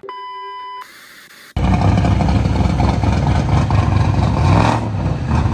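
A short electronic beep, then about one and a half seconds in a Ford Mustang GT's V8 engine starts sounding abruptly, running loud and deep with a strong low rumble.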